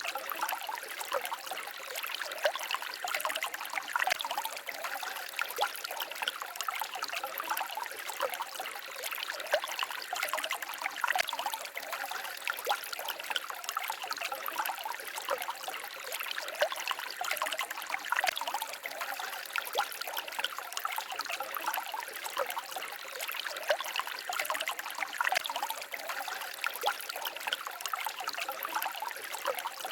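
Small forest stream trickling and babbling over stones: a steady, even water sound with many quick little splashes and gurgles, bright and without low rumble.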